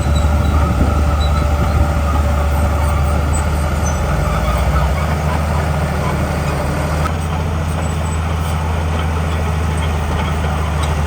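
Komatsu D41P bulldozer's diesel engine running steadily and loud, a continuous low drone with a noisy clatter above it.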